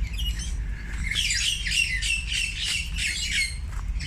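A flock of birds calling, many short, high calls overlapping, thickest from about a second in.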